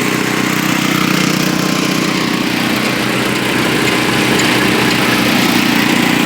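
Briggs & Stratton 8 HP single-cylinder engine on a 1972 Canadiana snowblower running steadily at throttle. Its carburetor leaks, and the high-speed mixture screw has just been turned leaner to keep it running.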